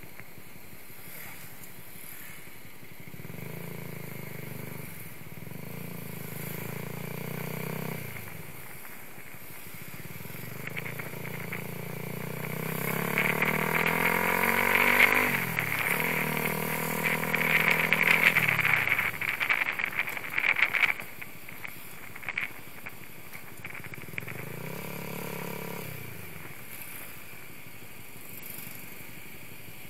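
Sport motorcycle's engine heard from an onboard camera, running at low revs, then rising in pitch twice as it accelerates, each rise broken by a sudden drop at a gear change, before settling back to low, steady running for the last third.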